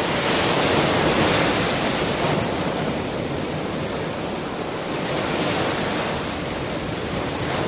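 Ocean surf: waves breaking and washing up the shore as a continuous hiss that swells and eases every few seconds.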